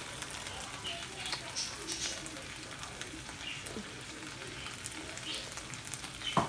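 Green beans frying in butter and soy sauce in a skillet, sizzling steadily with scattered small pops and crackles.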